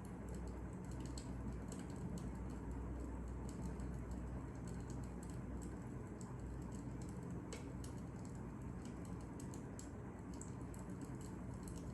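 Wood fire crackling: irregular sharp pops and snaps over a steady low rumble of burning, with one louder crack about seven and a half seconds in.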